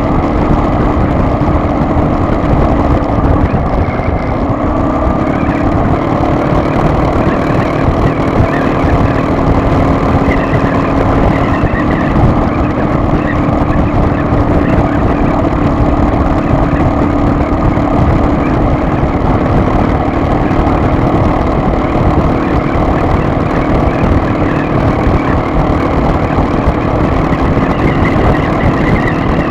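A car driving: steady engine and road noise, with the engine's hum shifting in pitch a couple of times as the speed changes.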